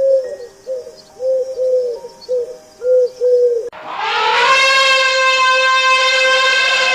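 A dove cooing: a run of short, arching hoots in quick succession. A little past halfway the sound changes abruptly to a different animal's long, steady call.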